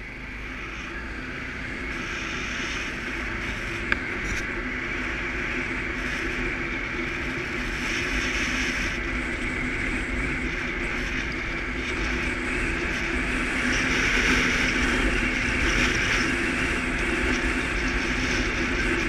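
Suzuki KingQuad ATV engine running steadily under way, with rushing wind and road noise, growing gradually louder. There is a single sharp click about four seconds in.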